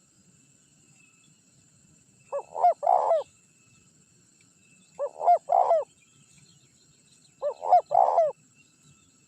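Spotted dove (tekukur) cooing: three phrases about two and a half seconds apart, each a couple of short coos followed by a longer one. This is the male's repeated territorial coo that draws rivals in.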